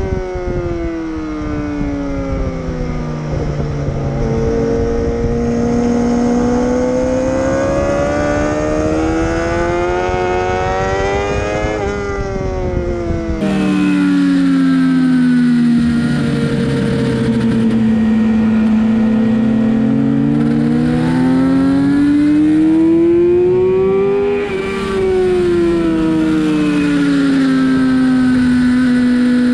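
Sportbike engine heard from onboard during a hot lap: its pitch climbs under acceleration, then falls as the throttle closes for corners, twice dropping sharply. There is wind rumble on the microphone for the first half.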